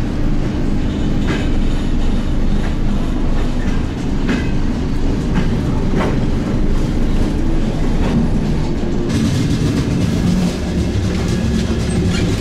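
Soviet-era elektrichka electric commuter train running, heard from inside the carriage: a steady low rumble with wheels clacking now and then over the rail joints.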